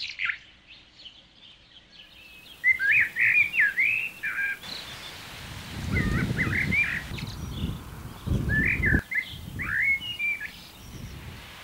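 Small birds singing in groups of quick chirps, several short phrases with pauses between them. Twice a low rumble sounds under the birdsong; the second cuts off suddenly.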